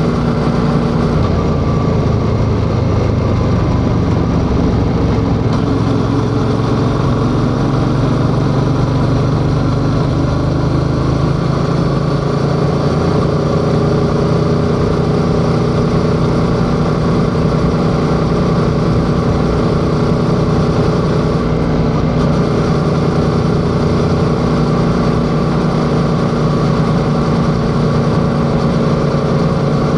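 Yamaha XSR700's 689 cc parallel-twin engine pulling under way, its note climbing gradually for several seconds, with a brief change about two-thirds of the way through, like a gear change.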